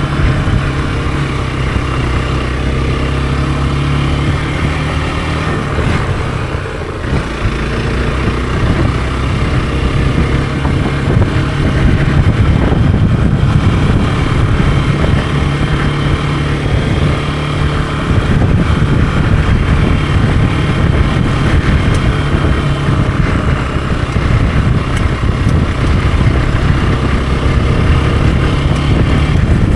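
Hero XPulse 200 4V's single-cylinder four-valve engine running while the bike is ridden, a steady engine note with wind and road noise. The engine eases off briefly about seven seconds in, then pulls louder from about twelve seconds.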